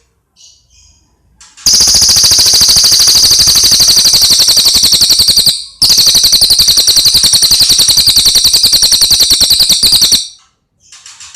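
Cililin song: two long, loud trills of very rapidly repeated notes, each about four seconds, with a brief break between them, and a few faint short chirps before and after.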